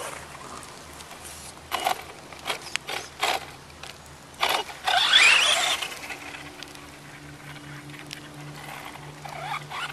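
Electric RC monster truck in mud: a quick run of short splashes and knocks, then its motor whining up in pitch about five seconds in, settling to a faint steady hum.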